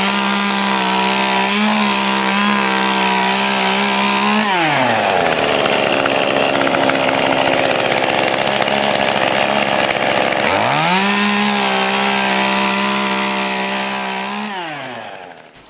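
Chainsaw engine running at high revs, then its pitch sags and the sound turns rough for about six seconds while it cuts through wood. It revs high again, then winds down and fades out near the end.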